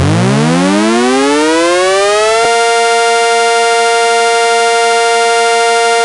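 Electromechanical tornado siren winding up, its pitch rising steadily from low to high, then holding a steady high wail from about two and a half seconds in.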